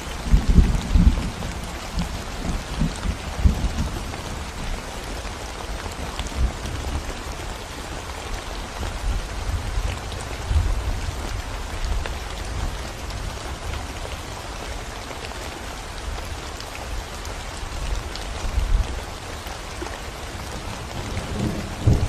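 Steady rain falling on a concrete road, an even hiss of drops throughout. Low rumbles come and go beneath it, strongest in the first few seconds and again near the end.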